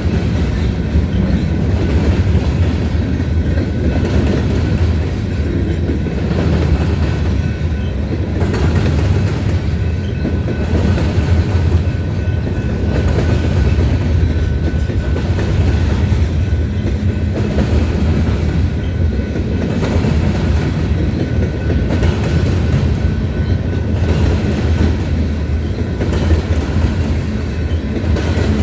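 Freight cars of a grain train rolling past, a steady heavy rumble with a regular clickety-clack of wheels over rail joints roughly every couple of seconds and a faint steady high-pitched whine.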